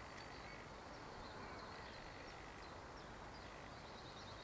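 Quiet outdoor ambience with faint birds chirping, including a quick run of chirps near the end.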